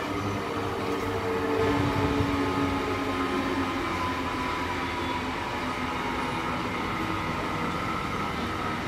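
Train running on the line at a station: a steady rumble with several whining tones, a few of them slowly falling in pitch, loudest about two seconds in.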